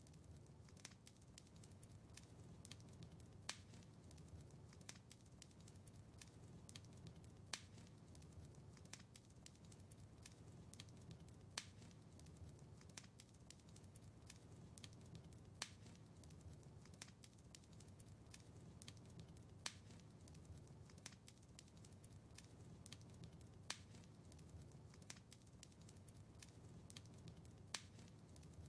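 Faint crackling of a wood fire in a fireplace: sharp pops and ticks over a low, steady rumble of flames. One louder pop comes back about every four seconds.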